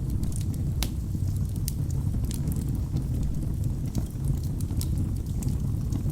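Wood fire burning in a fireplace: a steady low rumble of flames, with irregular sharp crackles and pops from the burning logs.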